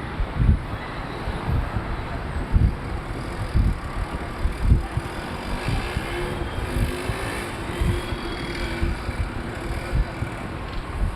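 Street noise with motor traffic going by over a steady haze. A pitched engine-like tone is held for a few seconds in the middle, and low thumps hit the microphone about once a second.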